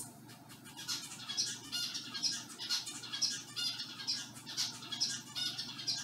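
Pet bird squawking: a steady run of short, high-pitched calls, about three a second.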